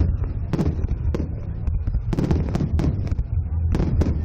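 Aerial fireworks going off: a string of sharp bangs and crackles, several close together about two seconds in, over a steady low rumble.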